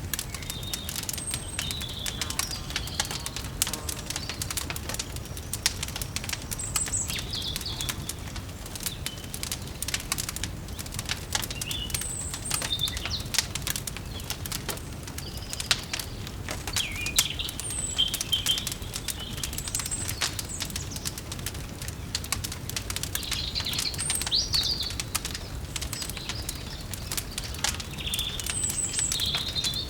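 Wood fire crackling with frequent sharp pops over a steady low rumble, while small birds chirp briefly every few seconds.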